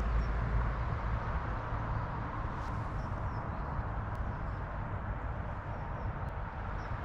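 Steady outdoor rumble and hiss with a few faint, short bird chirps.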